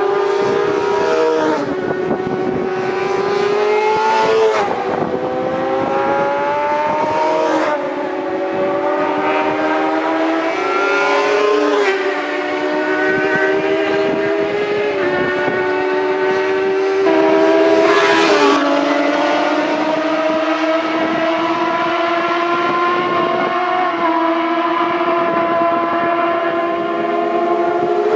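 750cc racing motorcycle engine running at high revs, its pitch climbing steadily and then dropping sharply at each gear change, about every three to six seconds.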